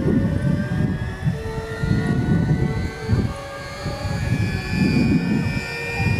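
Bell 204 (UH-1 Huey) helicopter running: heavy rotor noise with a turbine whine that slowly rises in pitch.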